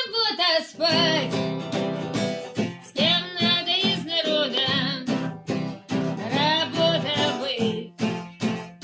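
A woman singing with a strummed acoustic guitar accompaniment, played live.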